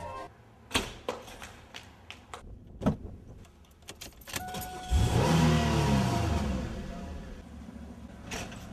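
A few sharp clicks, then a car engine starts with a turn of the ignition key about five seconds in, revs up and falls back to a steady idle.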